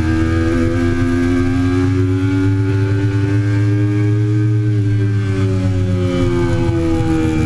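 A Triumph Daytona 675's inline three-cylinder engine running under way. The engine note climbs gently, then falls steadily over the last couple of seconds as the revs drop.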